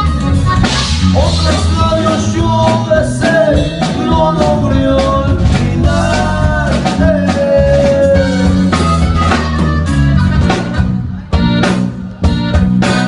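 A band playing the instrumental close of the song without vocals: a melody line over bass and drums. It ends with a few sharp, separate accented hits near the end.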